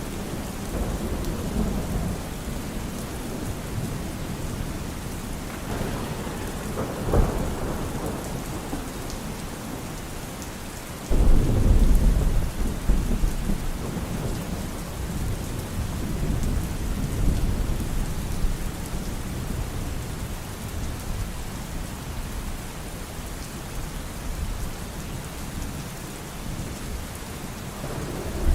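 Steady rain falling in a thunderstorm. There is a sharp thunderclap about a quarter of the way in. A heavier, sudden rumble of thunder starts a little before halfway and dies away slowly over several seconds.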